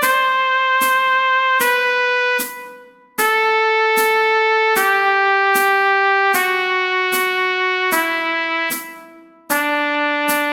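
Trumpet scale exercise over a keyboard accompaniment: long held notes step down a scale, about one note every one and a half seconds, while keyboard chords strike a steady pulse about every 0.8 s. The sound fades into two short breaks, one about two and a half seconds in and one near the end.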